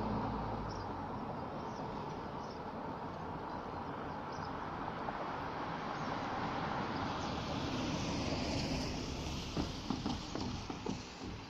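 A passing train's running noise, loudest at the start and easing off, then swelling again about eight seconds in. A few light clicks come near the end.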